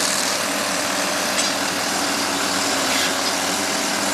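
A vehicle engine running steadily under a broad hiss.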